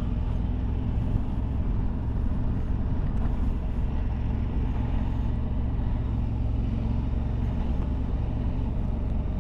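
Motorcycle engine running steadily while riding, with road and wind noise, heard from the rider's helmet.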